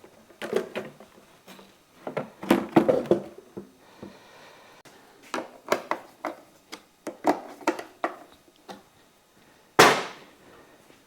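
Clicks and knocks of tools and motorcycle parts being handled during repair work, in irregular clusters, with one loud sharp knock near the end.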